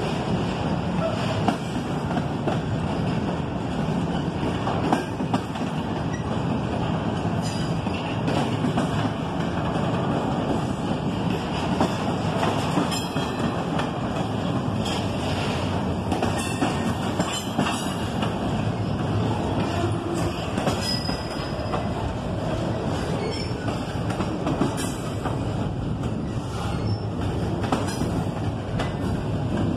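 Intermodal freight train's double-stack container well cars rolling past at speed: a steady rumble of steel wheels on rail with scattered sharp clicks from the wheels crossing rail joints.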